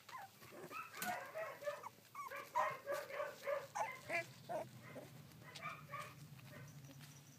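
Sixteen-day-old rough collie puppies whimpering and squeaking in a rapid string of short, high calls that sometimes overlap.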